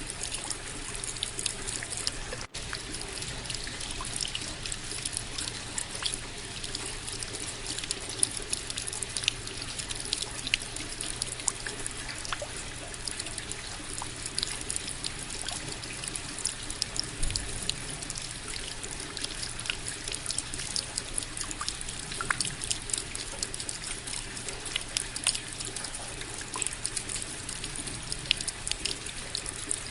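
Steady rain, with many close drops striking in sharp, irregular ticks over an even wash of falling water. There is a brief dropout about two and a half seconds in.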